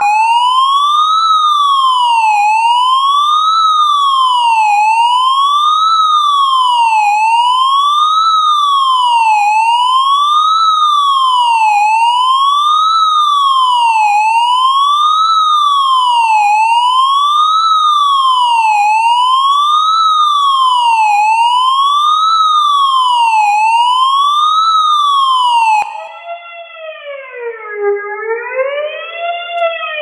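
Siren sweeping steadily up and down in pitch, about one rise and fall every two seconds. About 26 seconds in it cuts to a different, quieter siren with slower, rounder rises and falls.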